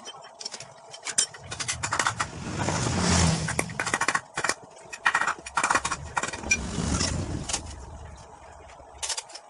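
A motor vehicle's engine swells and fades twice, with scattered sharp clicks and knocks throughout.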